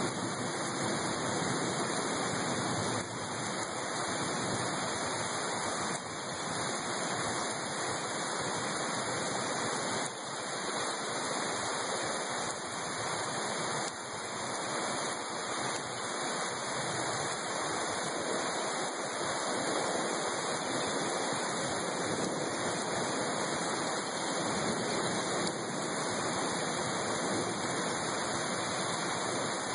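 Heavy rain pouring down steadily, a constant even rush of noise with no let-up.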